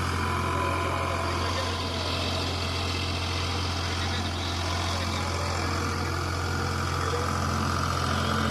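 Eicher 551 tractor's diesel engine running steadily at a constant speed, a low drone with no revving.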